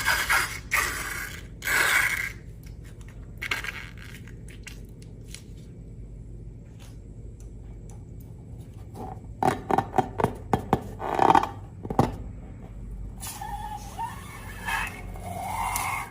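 Handling sounds of slime being made with balloons: scraping and crackling noises, a run of sharp clicks about nine to twelve seconds in, and short wavering tones that slide up and down near the end.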